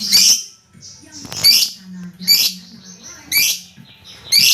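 Pet bird giving short, loud, high-pitched calls, five of them about a second apart.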